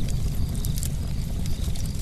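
Campfire burning with a steady low roar of flames and irregular sharp crackles and pops of burning wood.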